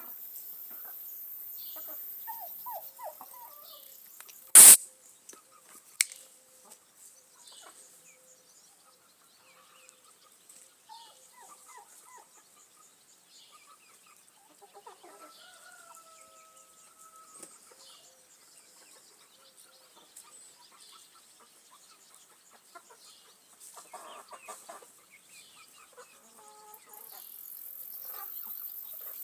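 Young chickens clucking, many short scattered calls with one longer held call about halfway through. A loud sharp knock about four and a half seconds in, the loudest sound, and a smaller one about a second later.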